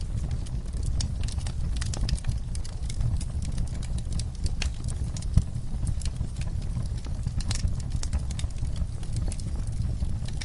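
Campfire crackling: a steady low rumble of the flames under frequent irregular sharp pops of burning wood, with one louder pop about halfway through.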